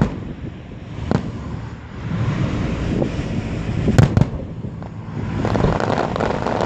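Aerial fireworks shells bursting: a sharp bang about a second in, then two bangs close together near four seconds, the loudest, over a low rumble of further bursts that grows denser near the end.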